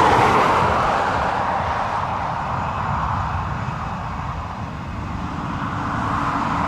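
Airliner engine noise, a steady rush that eases off over the first few seconds and builds again near the end.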